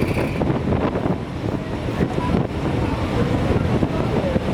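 Steady low rumble of a high-speed passenger vessel under way, its engine and rushing water mixed with wind noise.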